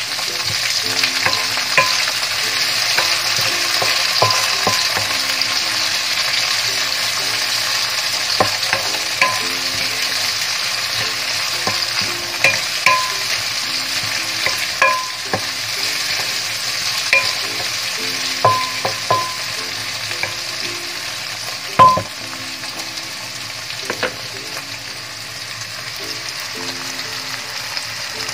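Shallots, garlic and tomato sizzling steadily in hot oil in a nonstick wok while a wooden spatula stirs them, with scattered knocks and taps of the spatula against the pan; one sharper knock comes about three-quarters of the way through.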